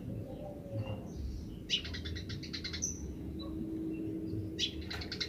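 Eurasian tree sparrows chattering: a rapid run of scratchy high notes about two seconds in and another near the end, with short single chirps between.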